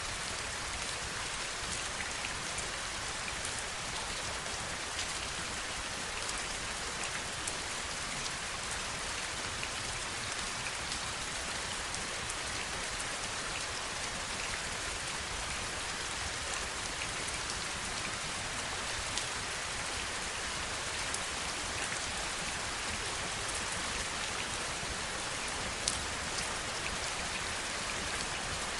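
Steady heavy rain falling, a constant hiss with scattered sharper drop ticks through it; one drop ticks a little louder near the end.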